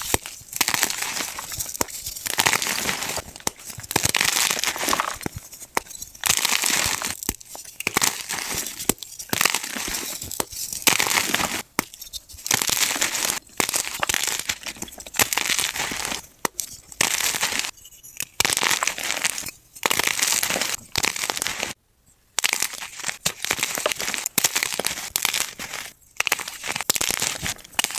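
Soft gym chalk being crushed, a run of crumbly crunching squeezes one after another, each about half a second to a second long with short pauses between, and one brief silence about 22 seconds in.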